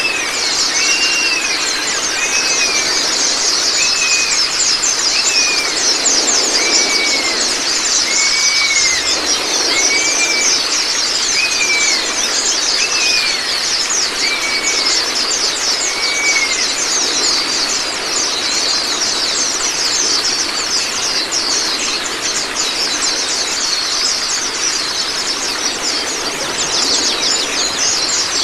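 Birdsong master recording for white-eyes: dense, rapid high-pitched twittering of small songbirds, with a repeated arched whistled note about once a second that stops a little past halfway, over a steady rush of running water.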